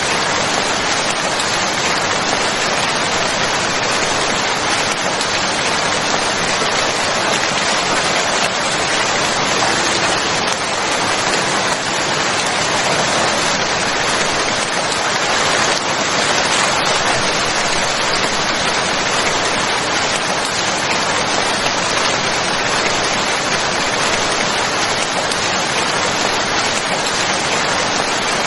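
Steady, dense rain falling and pattering on surfaces, an even hiss without distinct drops or thunder.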